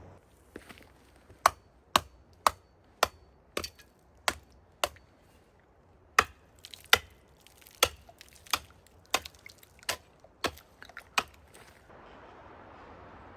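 Wood being chopped: about fifteen sharp blows on wood, roughly two a second, with a short pause near the middle.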